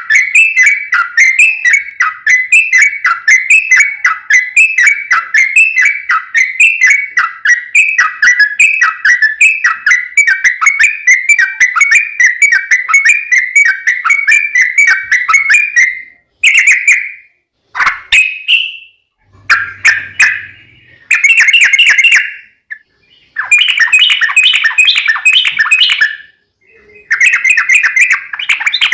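Yellow-vented bulbul (trucukan) in its long, rapid fighting chatter ('ropel panjang'), a fast unbroken stream of notes. About two-thirds of the way through it breaks into shorter bursts with brief gaps between them.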